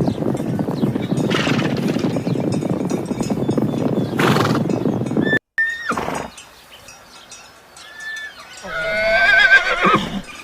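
Horse sounds: a dense noisy stretch that cuts off abruptly about five seconds in, then a horse whinnying near the end, its pitch quavering for about a second and a half.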